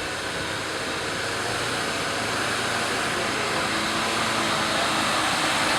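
Off-road 4x4 vehicle's engine running under a steady rushing noise, gradually growing louder.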